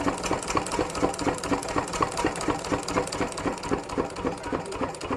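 Small farm diesel engine running steadily with a regular beat, the engine that drives a chaff cutter for chopping fodder.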